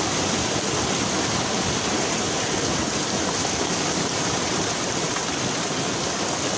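Steady rushing, splashing water, an even hiss without breaks.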